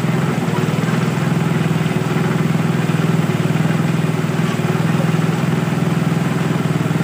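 Small engine of a portable water pump running steadily at a constant speed, with a low, even hum and rapid regular firing.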